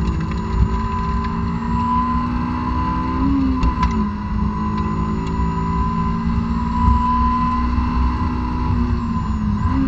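2006 Honda S2000's stock-exhausted 2.2-litre four-cylinder at full throttle, heard from inside the cabin, revving up high in the rev range. It drops sharply on an upshift a little over three seconds in, climbs again, and shifts once more at the very end, over heavy road and wind noise.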